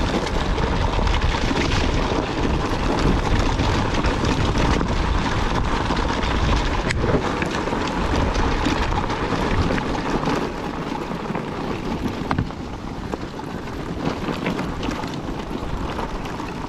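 Wind rushing over the microphone, with a motocross motorcycle running underneath and a few short knocks. The noise eases a little about ten seconds in.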